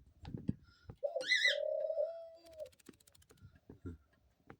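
A pet dove cooing: one drawn-out low coo starting about a second in and lasting about a second and a half, with a brief high chirp over its start. Soft knocks and a short patch of rapid fine clicks follow.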